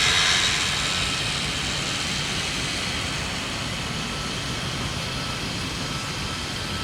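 Jet aircraft passing overhead: a wide rushing engine noise, loudest at the start and slowly fading away.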